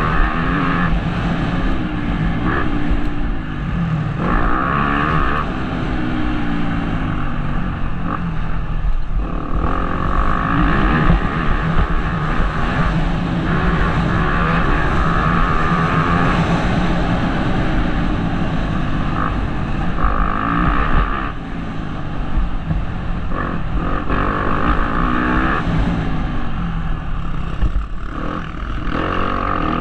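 Motocross bike engine revving up and down over and over as the rider accelerates, shifts and backs off around the track, heard close up from a helmet-mounted camera.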